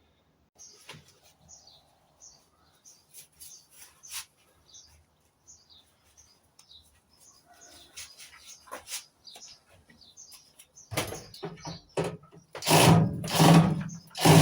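Small birds chirping faintly in the background, with light clicks and handling noise. About eleven seconds in, loud knocks and a harsh mechanical clatter with a steady low hum begin and are loudest near the end.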